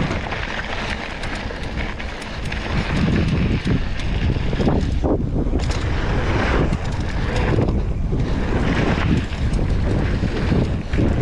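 Wind buffeting the camera microphone during a fast mountain-bike descent, a loud, gusting rush with a deep rumble that rises and falls, mixed with the noise of tyres on the dirt trail.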